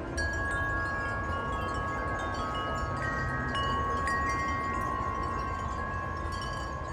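Several wind chimes ringing in strong wind, their long tones struck one after another and ringing on together, over a low rumble of wind.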